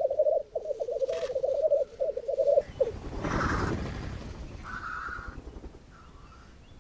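Male black grouse bubbling song: a rapid, pulsing cooing that breaks off about three seconds in. A short hissing rush follows.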